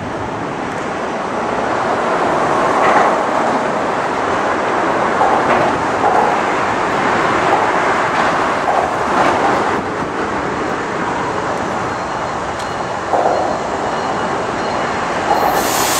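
Norfolk Southern diesel-hauled freight train approaching: locomotive engines and wheels on rail, a rumble that grows louder over the first few seconds. A high hiss comes in near the end.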